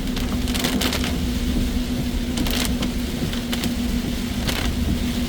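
Car cabin sound while driving: steady engine and road rumble with a constant hum, broken by irregular brief crackling swishes every second or so.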